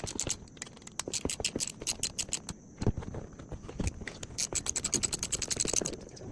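Hand ratchet wrench clicking in quick runs as bolts are backed out, with short pauses between strokes and a fast run of clicks near the end.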